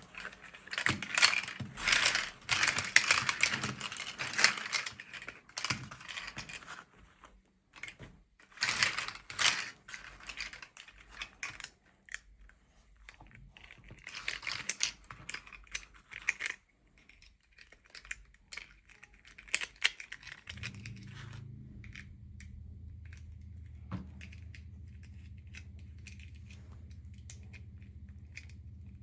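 Plastic and paper packaging crinkling and tearing in bursts with short pauses, as a toy is unboxed by hand. About two-thirds of the way through a steady low hum comes in, with only faint clicks and handling over it.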